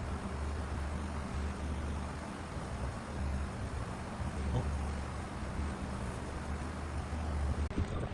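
Steady low hum of a workshop machine's electric motor running, with a broad even hiss over it, stopping abruptly near the end.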